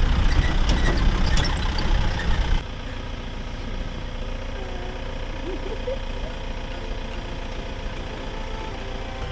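Vehicle engine running, loud with rattling clicks, then an abrupt cut about two and a half seconds in to a quieter, steady engine idle.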